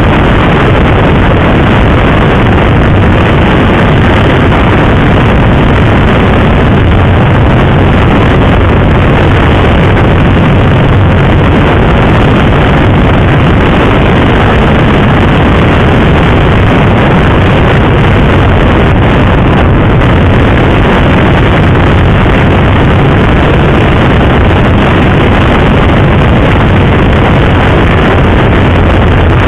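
Loud, steady wind rush on the microphone of a motorcycle being ridden at speed, with the bike's engine droning underneath.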